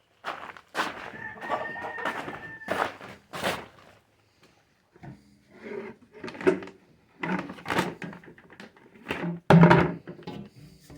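Feed containers and their lids being handled in a small space: a run of knocks, clunks and scrapes, with a thin squeak about a second in and a heavy thump near the end.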